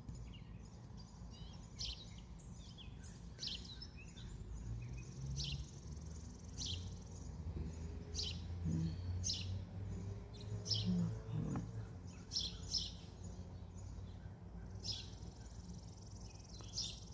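Songbirds chirping: short, sharp calls repeated about once every second or so. A faint low rumble swells and fades in the middle.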